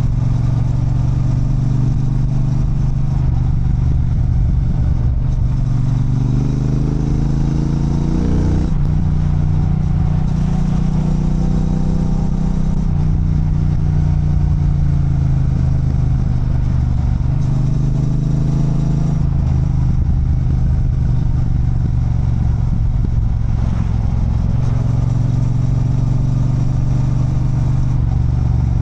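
Triumph Bonneville Bobber's 1200 cc parallel-twin engine running at riding speed. The revs climb for a couple of seconds and then drop suddenly about eight and a half seconds in, and rise and fall gently after that.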